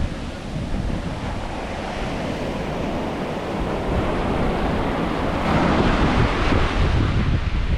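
Ocean surf washing onto a beach, with wind rumbling on the microphone; a wave breaks louder about two-thirds of the way through.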